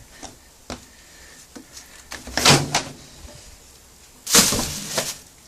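Laundry being loaded into a washing machine: a few light knocks, then two louder rustling thumps, one about two and a half seconds in and another past four seconds.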